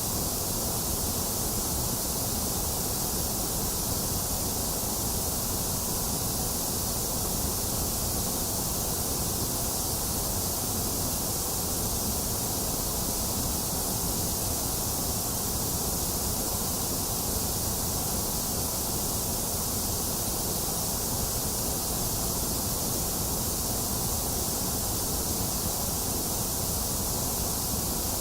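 Box fan running together with rain: a steady, even hiss that does not change, with no thunder or other sudden sounds.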